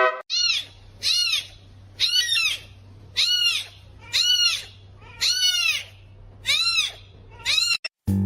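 An animal calling over and over, about one high call a second, each rising and then falling in pitch. A steady low hum runs underneath.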